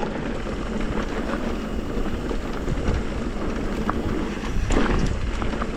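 Wind rushing over the camera microphone and the mountain bike's tyres rumbling over a dirt trail at speed, with a short clatter of the bike over a bump near the end.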